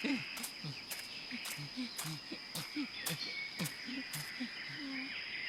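Cartoon background sound of a steady high insect-like chirr, with sharp ticks about twice a second and many short, low pitched calls scattered between them.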